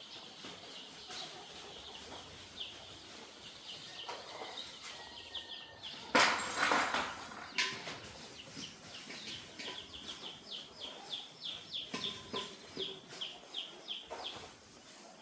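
A flock of three-day-old chicks peeping: many short, high, falling peeps, thickening in the second half. About six seconds in there is a loud rustling burst lasting a second and a half, typical of wings flapping or birds scrambling.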